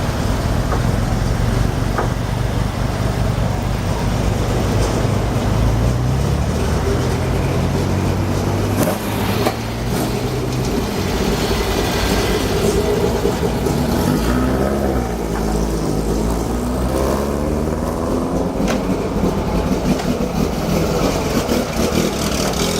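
Classic Lancia rally cars' engines running as the cars drive past one after another. A steady engine note gives way, about halfway through, to engine notes rising and falling as cars accelerate by.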